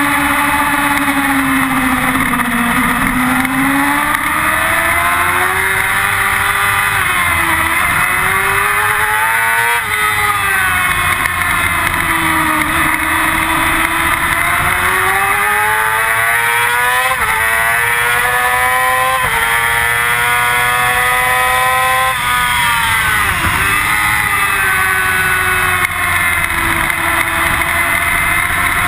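Yamaha R6 inline-four engine at track speed, revving up and down through the gears, with wind rushing over the onboard microphone. Near the middle the pitch steps down at two quick upshifts and climbs again. About two-thirds of the way through it drops sharply and then rises again.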